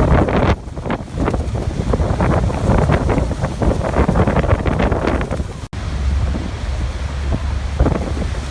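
Rushing water of a waterfall under heavy wind buffeting the microphone, a constant low rumble with an irregular, gusting splash-like noise above it. The sound cuts out for an instant a little over halfway.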